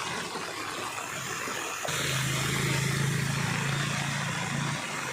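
Floodwater rushing steadily as it drains away. About two seconds in, a motor vehicle's engine joins with a steady low hum for about three seconds, then drops away.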